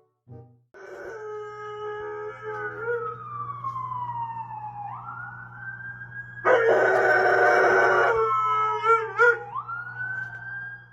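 A siren wails, sliding slowly down and back up in pitch, while a dog howls along in wavering tones. About six and a half seconds in, a much louder, harsher blast lasts nearly two seconds, and a steady low hum runs underneath.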